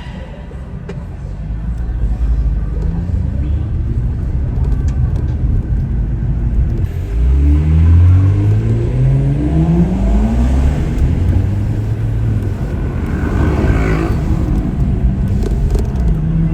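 Tuned turbocharged BMW engine accelerating hard, its pitch climbing in two pulls. The second, stronger pull starts about seven seconds in, then the engine holds a steady note.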